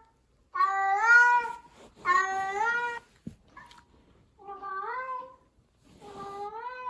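A cat meowing four times, drawn-out meows that rise and then hold their pitch; the first two are the loudest.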